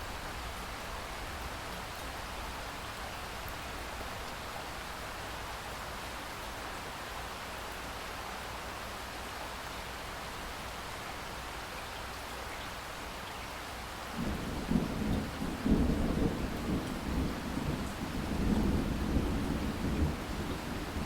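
Steady rain falling, then about two-thirds of the way through a deep rumble of thunder starts suddenly and rolls on, swelling twice.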